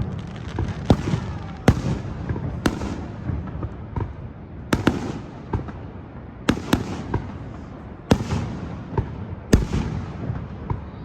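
Fireworks display: aerial shells bursting in a series of sharp bangs about a second or two apart, around nine in all, over a continuous low rumble.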